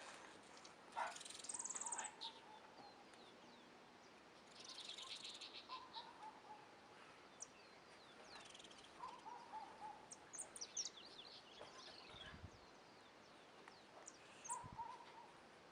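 Faint wild birdsong: scattered high chirps and short rapid trills from several birds, and a lower short call repeated about four times, over a quiet outdoor background.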